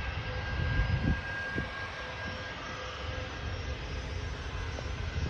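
Boeing 737 MAX 8's CFM LEAP-1B turbofan engines running for takeoff: a steady jet rush over a low rumble, with a faint steady whine on top.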